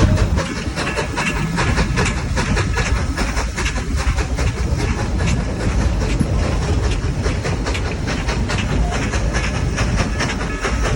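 Steam train rolling along the track: a steady low rumble with rapid, irregular clicking of the wheels over the rails.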